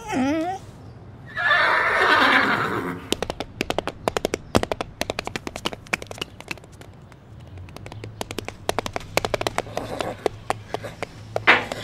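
A horse whinnies, then hooves clatter in a fast, uneven gallop, thinning out partway through and picking up again near the end.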